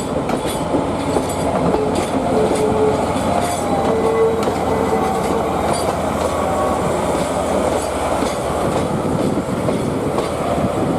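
DE11 diesel shunting locomotive moving a rake of 12-series passenger coaches slowly through the yard. The wheels clack steadily over the rail joints, with a few short wheel squeals.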